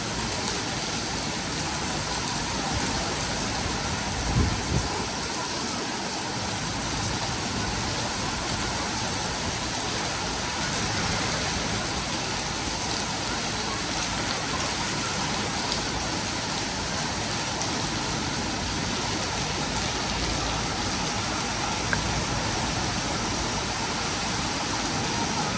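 Heavy rain pouring steadily, with two brief low thumps about four seconds in.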